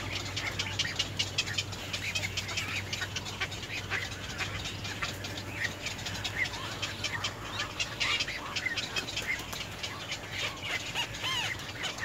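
Birds calling: a dense run of short chirps and clicking calls, with a low steady hum underneath.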